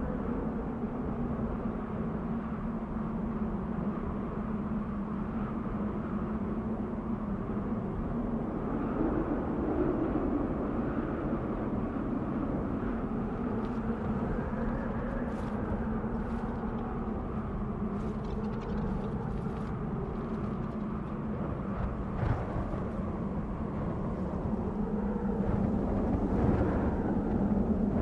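Desert wind blowing steadily in slow swells, with a low, steady moan under it and a few faint crackles in the second half; it grows a little louder near the end.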